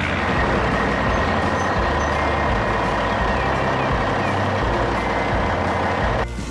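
Heavy machinery running: a dense, steady mechanical noise with a high thin whine, cutting off abruptly near the end.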